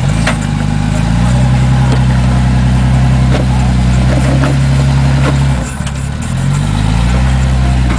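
Off-road 4x4's engine revving up and pulling steadily under load for several seconds, easing off briefly about two-thirds in, then revving up again.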